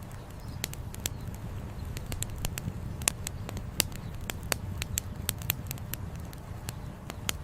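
Campfire burning, the firewood crackling with irregular sharp pops several times a second over a steady low rumble.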